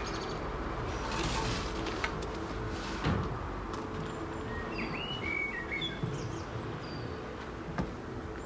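Small birds chirping, with a cluster of short rising calls about halfway through, over a steady low hum. A couple of brief soft knocks come early on.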